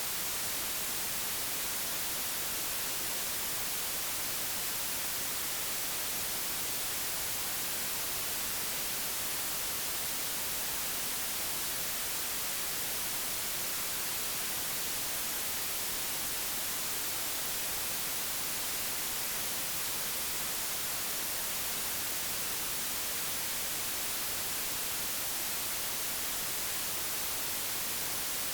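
Digitally generated white noise: a steady, even hiss with no change in level, strongest in the high frequencies.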